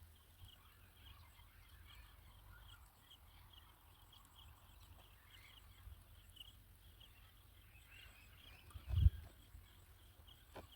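Faint outdoor ambience: a steady run of short, high chirps, two or three a second, over a low rumble, with a dull thump about nine seconds in.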